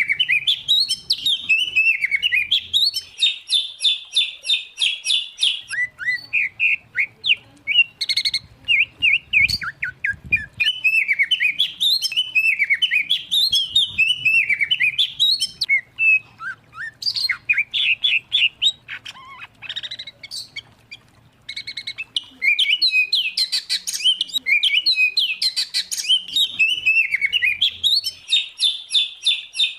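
Songbird song from a mixed recording of white-rumped shama, oriental magpie-robin and greater green leafbird: long runs of rapid, varied whistled phrases and fast trills. There is a short lull about two-thirds of the way through.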